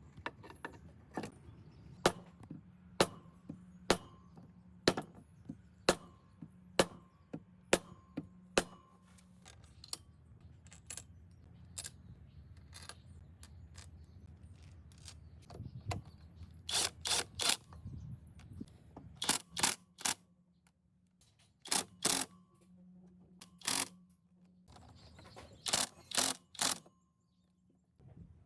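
Hand-tool work on engine parts: sharp taps about one a second at first, then short clusters of louder knocks in the second half, over a faint steady hum.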